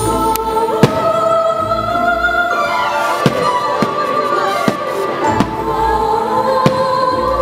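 Fireworks shells bursting over orchestral show music: held musical notes run throughout, broken by about seven sharp cracks, the loudest about a second in, and several low booms.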